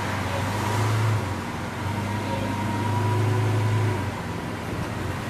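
A steady low motor hum with a faint high whine over it, which changes briefly about a second in and drops near the end.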